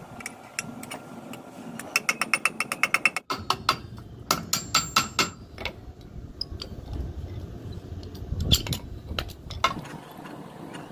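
Hammer tapping on metal in quick runs of light strikes, about ten a second, then a single harder strike a few seconds later.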